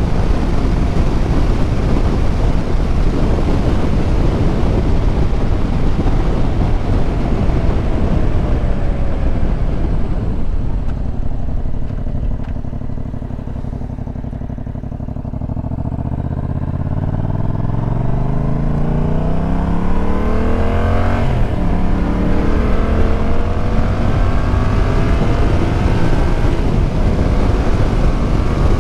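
Motorcycle riding, heard with heavy wind and road noise. About halfway through the bike slows and the noise drops off. Then the engine climbs in pitch as it accelerates, shifts up about two-thirds of the way in, and climbs again.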